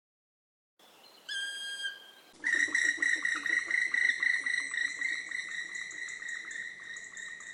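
Black woodpecker calling: one drawn-out whistled note that drops slightly in pitch at its end, about a second in. Then, from about two and a half seconds, a continuous high-pitched call broken into rapid pulses that slowly fades.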